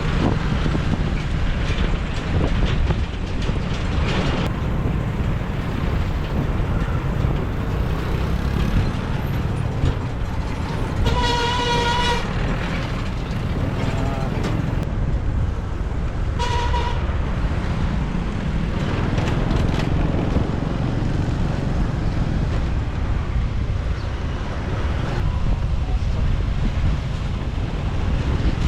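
Riding in city traffic on a motorbike: a steady low rumble of engine, road and wind, with a vehicle horn sounding for about a second near the middle and a short toot a few seconds later.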